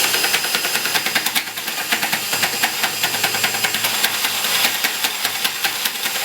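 Homemade wood lathe driven by an electric drill running on its first test, with a rapid, irregular rattling and clicking over a hiss. The run is very rough, the spinning parts not well on centre.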